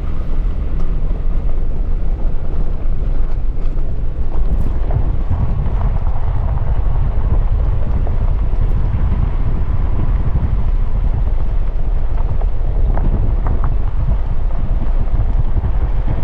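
Strong wind buffeting the microphone: a loud, steady, fluttering low rumble.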